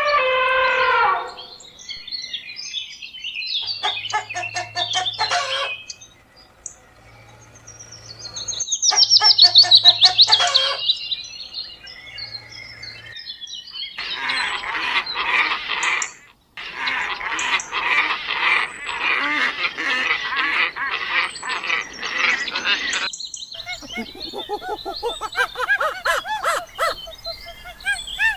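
A string of different animal and bird calls spliced one after another, with sudden cuts between them: a falling honking call, bursts of rapid repeated calls, a loud rising-and-falling call about ten seconds in, then a long stretch of dense chattering bird calls.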